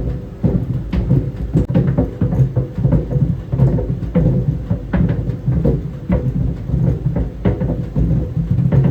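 Tennis balls tumbling in a running clothes dryer: irregular thumps and knocks against the drum, several a second, over the drum's steady low rumble.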